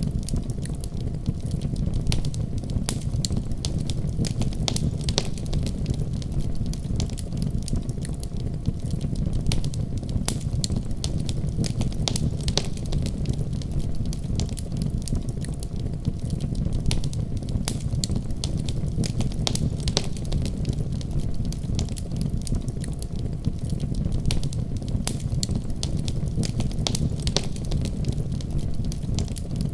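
Wood fire burning with a steady low rumble of flames and frequent sharp crackles and pops scattered irregularly throughout.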